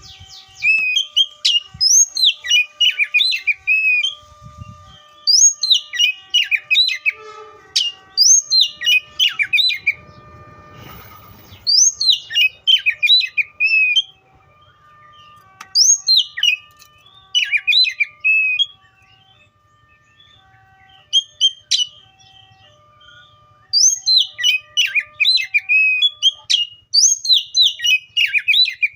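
Oriental magpie-robin singing: short phrases of loud, clear whistled notes, many sliding down in pitch, repeated every few seconds with short pauses between.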